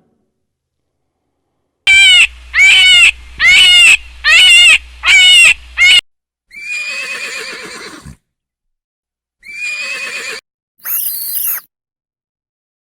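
Horse whinnying: a loud run of about six quick, quavering calls, then three shorter separate calls with gaps between them.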